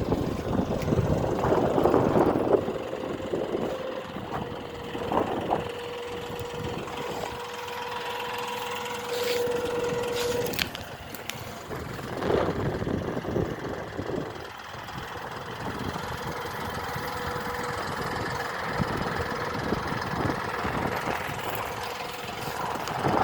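John Deere 5405 tractor's common-rail diesel engine running steadily, with a held droning tone for several seconds near the start and a few brief swells in engine sound.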